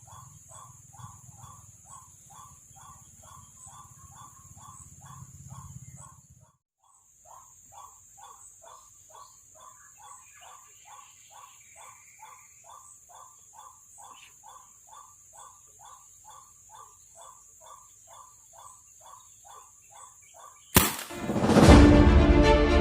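A bird calling one short, falling note over and over, about two a second, over a steady high-pitched hum. Loud music starts near the end.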